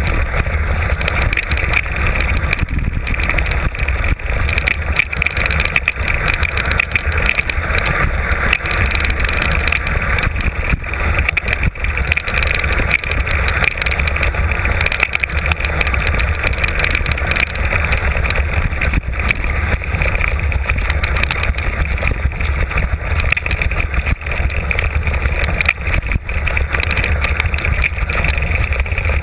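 Mountain bike descending a rough trail, heard from an on-board camera: steady wind rush on the microphone and tyre noise, with frequent rattling knocks from the bike over the rocky ground.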